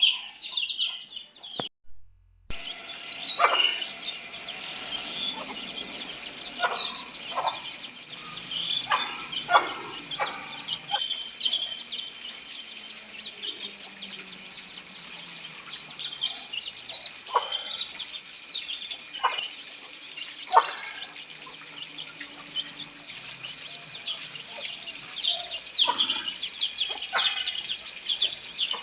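Chickens clucking now and then over a constant chorus of high-pitched chirping.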